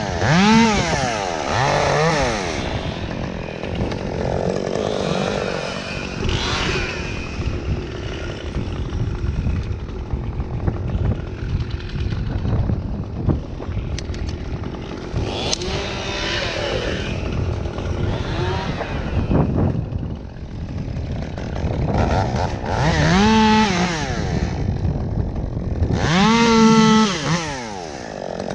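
Gasoline chainsaw cutting wood, revved up and eased off again several times with rougher steady running in between; the sharpest revs come right at the start and in the last few seconds.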